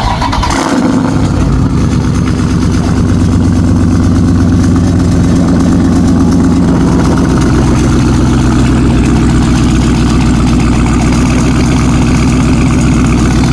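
Loud car engine just fired up, settling within the first second into a steady idle with an even low tone.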